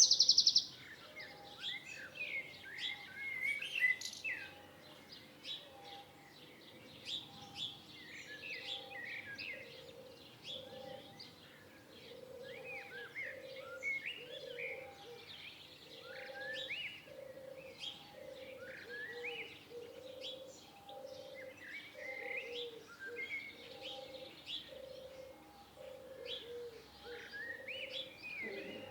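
A chorus of songbirds chirping and singing, many short high chirps and quick sweeping notes overlapping from several birds. Underneath, a lower sound pulses steadily, a little faster than once a second.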